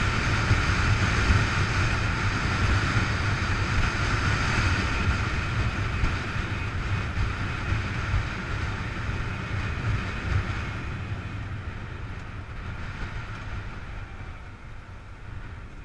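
Vehicle engine running with a low rumble, fading gradually as it moves away.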